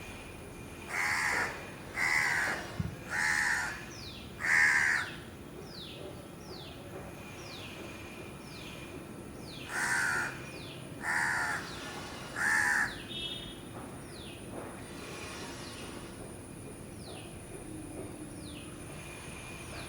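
Crow cawing: four harsh caws in quick succession, then three more about ten seconds in. Throughout, a small bird repeats a short high falling note about once a second.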